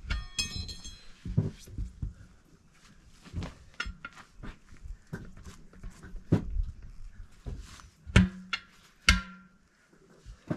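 Steel tyre levers clanking against a wheel rim and the tyre thudding as the bead is levered off by hand, in irregular knocks. One strike rings briefly just after the start, and the two loudest knocks come near the end.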